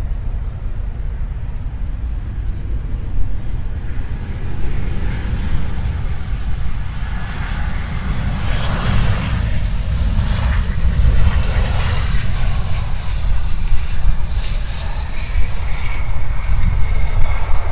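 Aircraft engines passing: a roar that builds to its loudest about halfway through, with a high whine that slowly falls in pitch as the aircraft goes by, over a steady low rumble.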